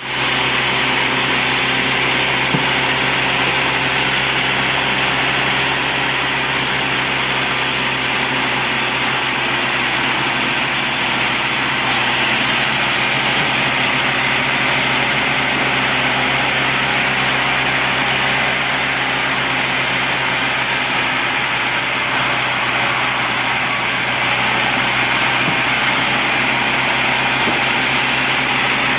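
Sawmill bandsaw running steadily, an even mechanical noise with a constant hum that does not change.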